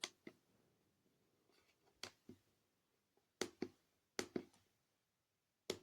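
Buttons on a Bosch Hammer KTS 300 handheld scan tool being pressed: about five short clicks, most of them a quick double click a fraction of a second apart, with near silence between.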